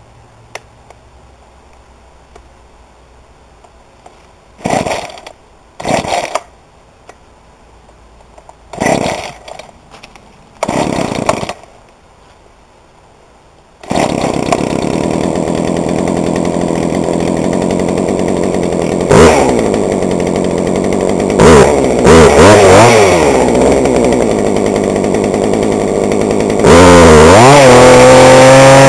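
Two-stroke chainsaw being pull-started on its freshly rebuilt carburetor: several short pulls that sputter without catching, then about halfway in the engine starts and runs steadily. It is blipped a few times with rising and falling revs, and near the end it is held at high revs.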